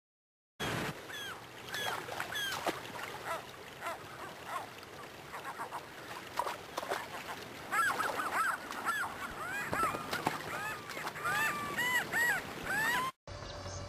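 A flock of geese honking, many short calls overlapping, growing busier about eight seconds in. The sound starts abruptly just after the start and cuts off suddenly about a second before the end.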